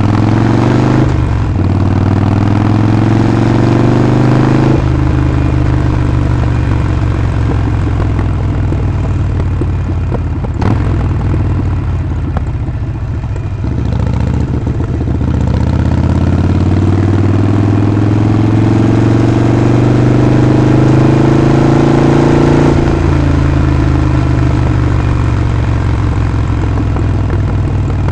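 Harley-Davidson Sportster Forty-Eight's 1200 cc V-twin engine and exhaust on the move. It pulls up in pitch twice, briefly about a second in and then for about nine seconds from the middle, each time dropping back as the rider shifts or eases off, and runs steadily in between.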